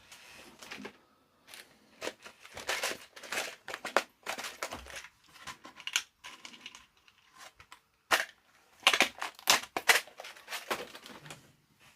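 Irregular rustling, crinkling and light clicking of hands handling small parts, packaging and tools at a workbench, with a cluster of louder crackles near the end.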